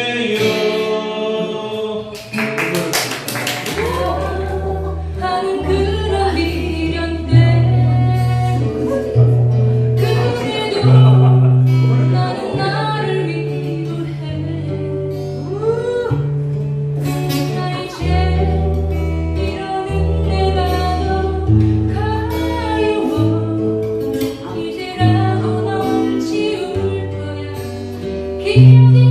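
Acoustic guitars strumming along with singing, over low sustained bass notes that change every second or two.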